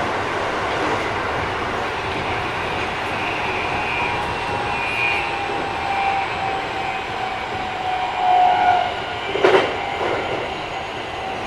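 Keikyu 1000 series electric train heard from on board while running: steady wheel-and-rail rolling noise with faint, thin high tones from the Mitsubishi IGBT traction equipment. The tones swell briefly about 8 seconds in, and a single sharp knock comes about a second later. This unit runs a little noisier than others of its class.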